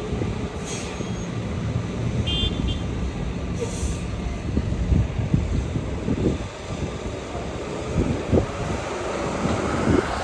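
Road traffic on a city street, vehicles including buses running past with a steady low rumble. A short high beep sounds about two and a half seconds in, and there are brief hisses near the start and about four seconds in.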